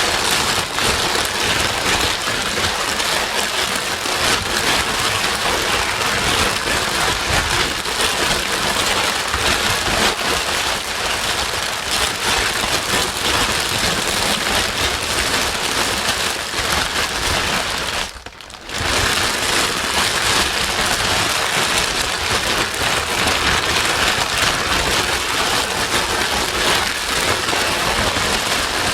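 Steady, rain-like white noise played to soothe a crying baby: an even hiss across all pitches, with a short dip in level about eighteen seconds in.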